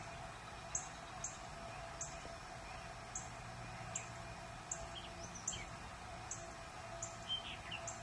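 Birds calling: a regular series of short, very high notes about once a second, with a few lower chirps in the second half, over a faint steady hum.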